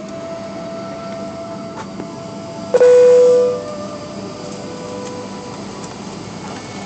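Steady hum of an airliner cabin's air conditioning before takeoff. About three seconds in, a single loud cabin chime sounds and fades over about a second, the signal that goes with the fasten-seatbelt sign.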